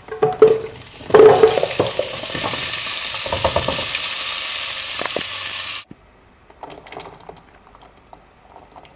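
Diced courgette tipped from a wooden chopping board into a steel pot of hot oil and frying garlic: a few knocks of board and wooden spoon against the pot, then loud sizzling for about five seconds that cuts off suddenly. Faint clicks and knocks follow as canned beans go into the soup.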